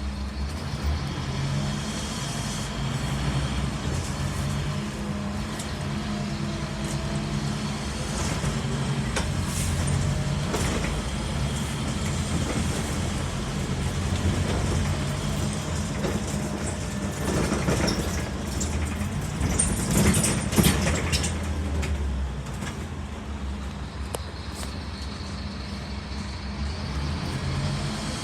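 Scania N230UD Omnicity double-decker bus heard from the upper deck, its five-cylinder diesel engine running as the bus drives along. There is a louder burst of rattling and knocking about two-thirds of the way through.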